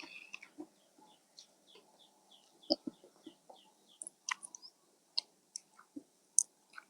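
A bird calling with short, high chirps repeated about three or four times a second, fading out about halfway through, among scattered sharp clicks and knocks.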